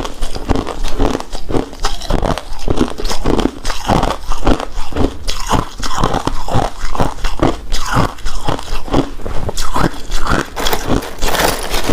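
Close-miked chewing of a chewy, sticky rice cake coated in shredded coconut: steady, repeated wet mouth sounds, about three a second.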